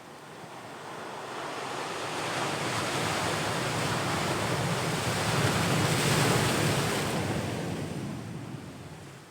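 Ocean waves on the shore: one wave swells, breaks and washes up, loudest about two-thirds of the way through, then fades away.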